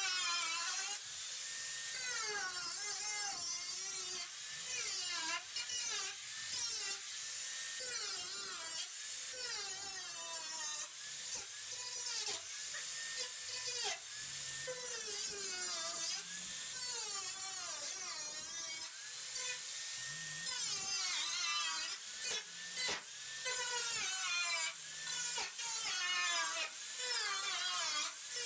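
A high-pitched power cut-off tool cutting through the rusted sheet-metal nose of a 1971 VW bay-window bus. Its whine sags and recovers over and over as the wheel bites into the metal, with many brief stops between cuts.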